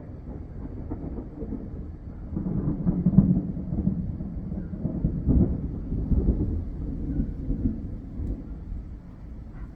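Thunder rumbling: it builds about two seconds in, is loudest around three seconds in, and goes on in uneven waves before dying down near the end.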